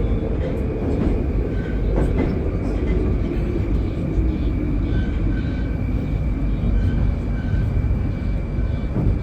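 An 81-761 "Oka" metro car running in the tunnel, heard from inside the car: a low rumble of wheels on rail under a traction-drive whine that falls slowly in pitch as the train slows toward the station, with a thin steady high tone above it.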